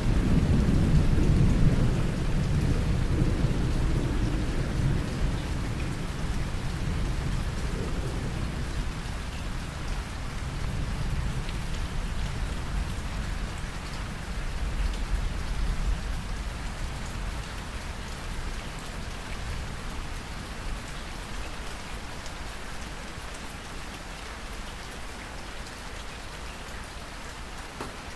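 Steady heavy rain with a long roll of thunder, loud at first and slowly dying away until only the rain is left near the end.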